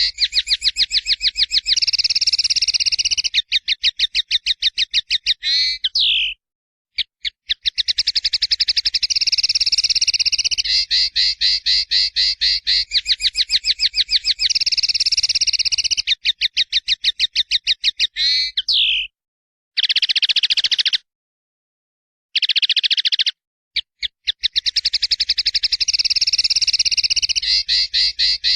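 A songbird singing long, fast trills of rapidly repeated notes, high and bright, broken by a few brief abrupt silences, as in a masteran tutor recording of a linnet, shama or canary.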